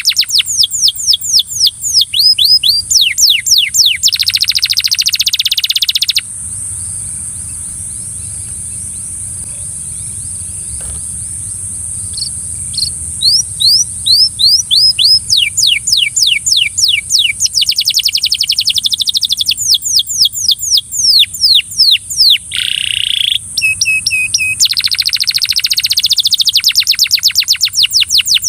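Belgian canary singing: rapid trills of repeated downward-sweeping high notes, broken by a pause of about six seconds roughly a quarter of the way in before the song starts again. A steady high hiss runs underneath.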